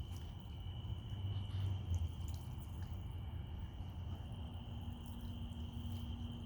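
Small garden water fountain trickling and dripping, with a steady high insect trill over it and a low rumble underneath. A low hum comes in about two-thirds of the way through.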